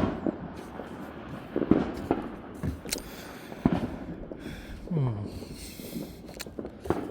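Fireworks going off around the neighbourhood: a series of sharp bangs and pops at irregular intervals, about eight in seven seconds.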